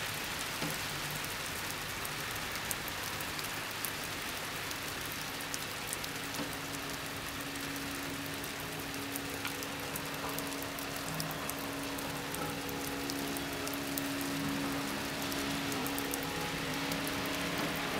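Steady rain falling on a window, with many small ticks of individual drops striking the glass and frame.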